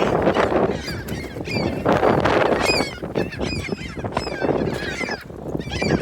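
A flock of gulls calling over one another: many short, high, overlapping cries.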